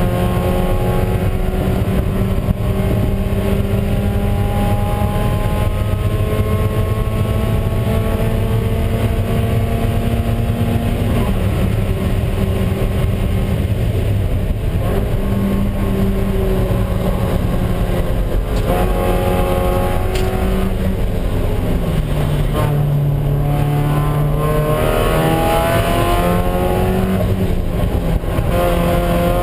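Spec Miata race car's four-cylinder engine heard from inside the caged cockpit under hard acceleration, its pitch climbing slowly down the straight, dropping as the car slows and shifts for the corners, and climbing again near the end, over steady wind and road noise.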